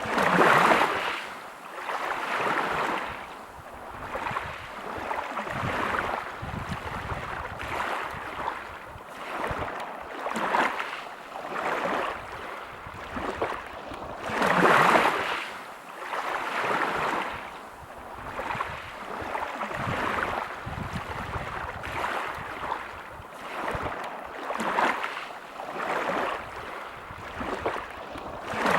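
Sea waves breaking on a pebble beach, surging in and washing back over the stones, each swell rising and falling every second or two. The biggest breaks come about half a second in and about halfway through.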